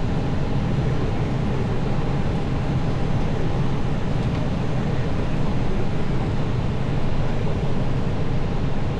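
Steady rush of airflow and engines in an Airbus airliner's cockpit on short final, just above the runway before touchdown.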